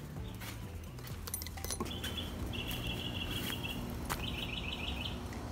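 A songbird singing: a short trill about two seconds in, then a run of quick repeated chirps. A couple of faint clicks are heard along with it.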